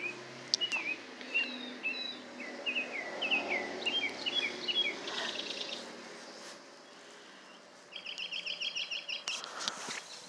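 Birds calling: a string of short, high, down-slurred chirps that come faster and overlap through the first half, a brief rapid trill about halfway, then a quick chattering run of notes near the end.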